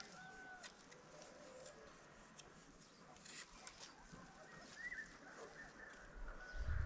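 Faint bird calls: a few short held notes near the start and one brief rising-then-falling call about five seconds in, with scattered small clicks.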